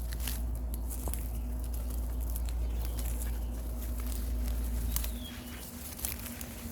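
Outdoor sound of someone walking through vegetation: scattered footsteps and rustles, over a low wind rumble on the microphone that drops off abruptly about five seconds in. A single faint bird call comes near the middle.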